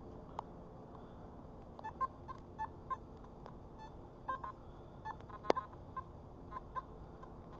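Metal detector giving short, irregular beeps as it is swept over the ground, about a dozen scattered through the stretch. A sharp click about five and a half seconds in is the loudest sound.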